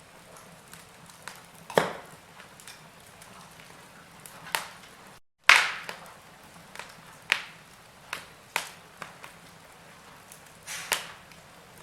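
Wood fire crackling in a fireplace: sharp, irregular pops and snaps a second or so apart over a faint steady hiss. The sound cuts out for a split second about five seconds in, just before the loudest pop.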